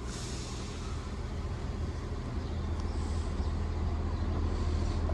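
Diesel multiple unit's underfloor engines running, a steady low rumble that slowly grows louder.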